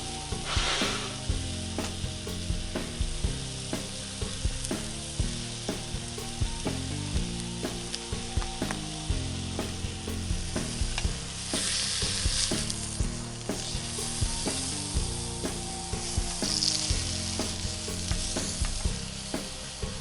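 Campfire crackling and hissing, with many sharp pops.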